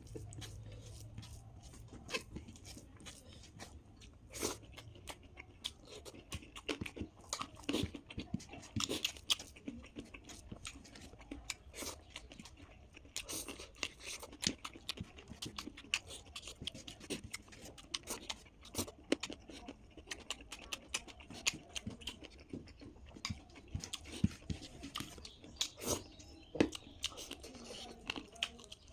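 Close-up chewing and mouth sounds while eating, with irregular soft crunches and wet clicks.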